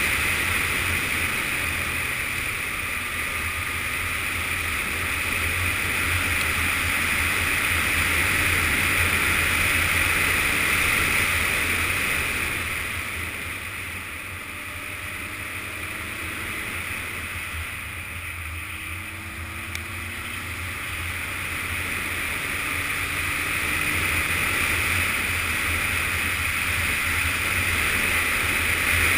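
Yamaha Fazer FZS600 motorcycle's inline-four engine running on the move, mostly buried under steady wind rush on a helmet or bike-mounted action camera microphone. The sound eases off about halfway through and builds up again near the end.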